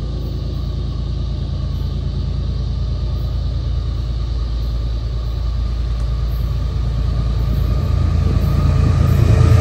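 Low rumble of an approaching Florida East Coast Railway train, growing steadily louder as the locomotive nears.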